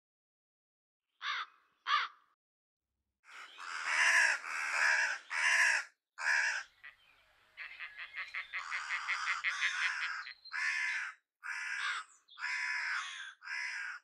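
Harsh, raspy bird calls: two short calls, then a run of longer squawks, a fast rattling chatter of about nine pulses a second in the middle, and more squawks near the end.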